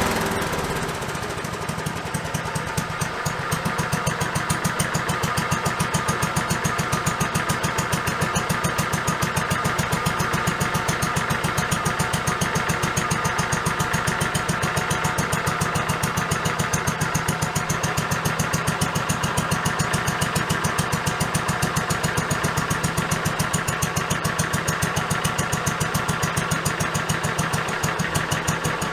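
Restored Kohler K301 single-cylinder engine on its test run, running steadily with an even exhaust beat; it eases down slightly in the first couple of seconds, then holds a steady speed.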